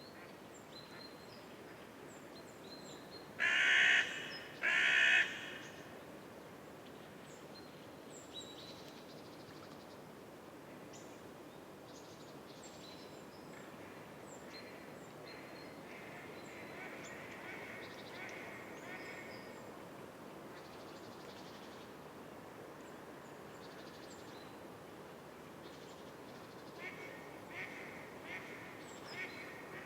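Two loud, harsh bird calls in quick succession about four seconds in, over faint scattered chirping from other birds and a steady outdoor hiss. A run of short, sharp chirps comes near the end.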